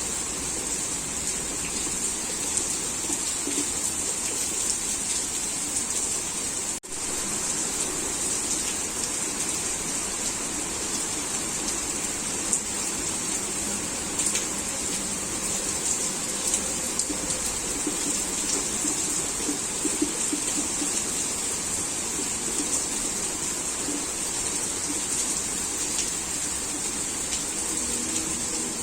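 Heavy rain falling steadily, with scattered drop ticks in a dense hiss. The sound cuts out for an instant about seven seconds in.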